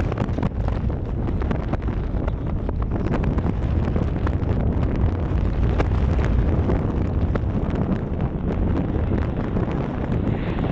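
Strong wind buffeting the microphone: a heavy, steady low rumble with frequent crackles.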